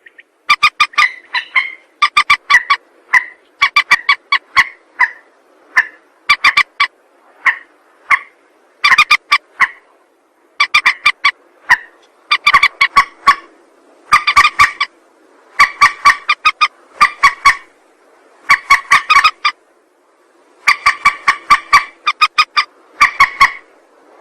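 Rail (Indonesian 'mandar') calling over and over, as used for luring: quick series of short, sharp notes in groups about once a second, with a brief pause twice.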